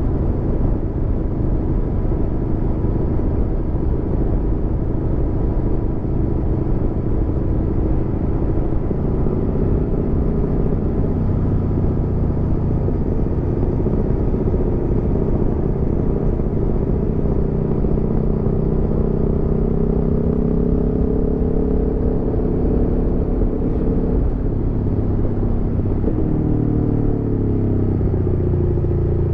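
Aprilia Tuono V4 motorcycle's V4 engine running under way, with road and wind noise. Its pitch shifts about 9 seconds in, climbs slowly through the middle, then drops near the end.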